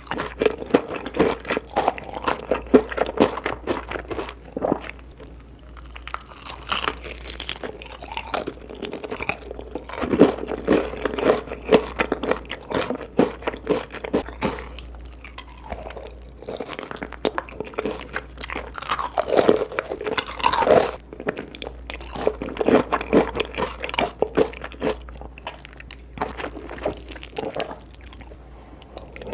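Close-miked eating sounds: a person chewing, biting and crunching food in a quick, irregular run of crisp clicks and squelches, with louder clusters about ten seconds in and again around twenty seconds.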